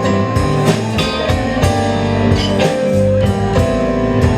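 Live blues band playing an instrumental passage: guitar over a steady beat.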